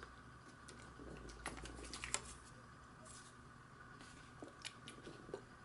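Faint handling noise while a cork rod grip and a plastic spray bottle are moved about: a few light, scattered clicks and taps over quiet room tone.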